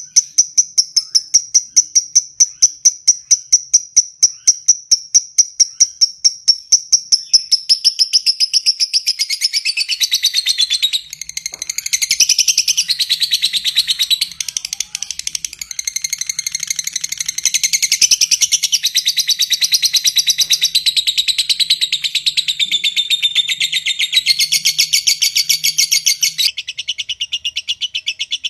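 Lovebird calling: evenly spaced, sharp, high ticking notes, about four a second, run into a long, fast, shrill chatter after about eight seconds. This is the lovebird's 'ngetik' ticking leading into 'ngekek' chattering.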